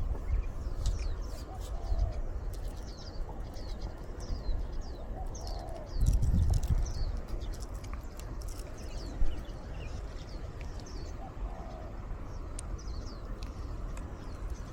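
Mangrove birdsong: a dove cooing about four times, over many quick high chirps from small birds. Wind buffets the microphone about six seconds in, and a single sharp click comes a little after nine seconds.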